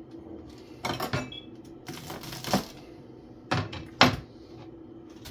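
Kitchen clatter: a few knocks and clinks of dishes and utensils being handled and set down, with a brief ringing clink about a second in and two sharp knocks near the end.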